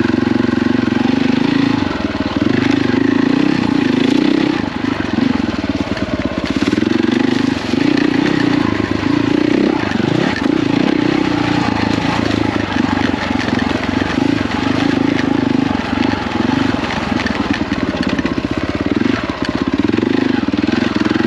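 KTM 450 EXC four-stroke single-cylinder dirt bike engine being ridden hard, its revs rising and falling every second or two as the throttle is worked on and off.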